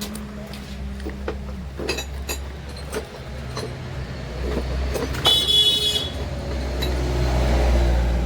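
Road traffic rumbling past, with a vehicle horn sounding once for under a second about five seconds in. Scattered light metallic clinks and knocks of tools are heard in the first half.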